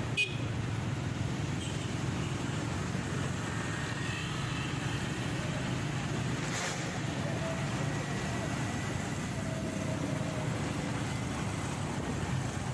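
Motorcycle riding through city traffic: a steady engine and road rumble with other vehicles around. There is a sharp click about a quarter second in and a brief sharp sound about six and a half seconds in.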